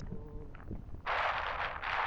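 Steady rush of wind and road noise on a motorcycle helmet microphone, coming in suddenly about a second in after a quieter moment.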